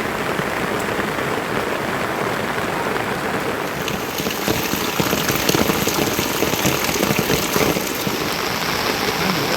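Rain falling steadily, growing fuller and brighter about four seconds in.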